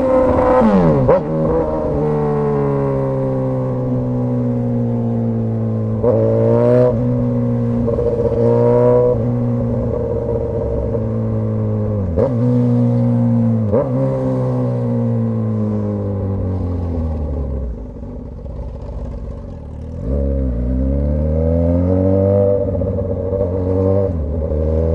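Straight-piped Suzuki GSX-S1000 inline-four motorcycle engine, loud and under way: the revs sag slowly between several quick rises with sharp cracks at the gear changes. The revs drop low for a few seconds after the middle, then pick up again about twenty seconds in.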